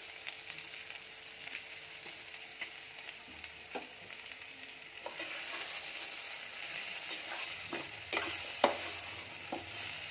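Potato and onion samosa filling sizzling in oil in a pan while a spoon stirs it, scraping and knocking against the pan now and then. The sizzle grows louder about halfway through.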